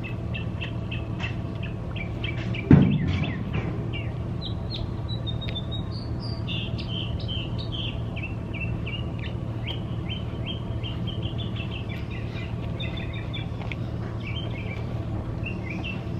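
Small birds chirping and singing, short high calls repeating throughout and growing busier about halfway through, over a steady low hum. A single loud thump about three seconds in.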